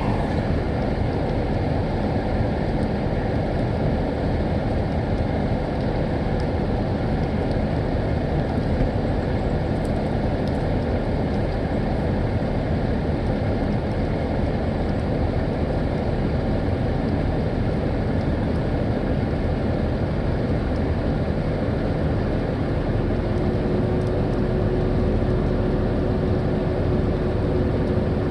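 Truck engine running steadily, with a low hum and a steady tone joining near the end.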